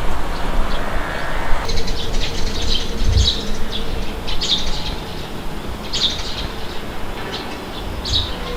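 Birds chirping over and over, short high calls coming in clusters from about two seconds in, over a steady low rumble of wind.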